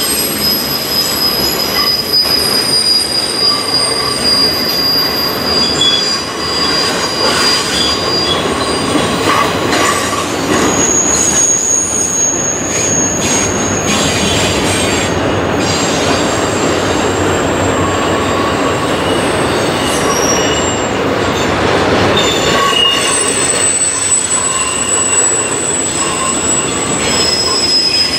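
Double-stack intermodal container train passing close by: steel wheels rolling on the rails with a steady loud rumble, and thin high wheel squeals that come and go, with occasional clacks.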